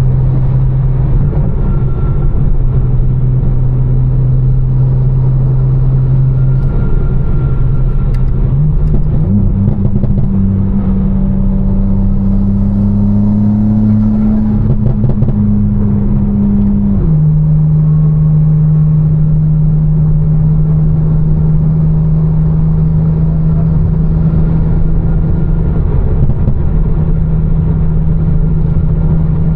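Tuned BMW M4's twin-turbo inline-six, with catless downpipes and a Fi exhaust, running steadily while driving. About nine seconds in the revs step up and hold, then drop sharply at around seventeen seconds, as at a gear change, and settle at a steady note.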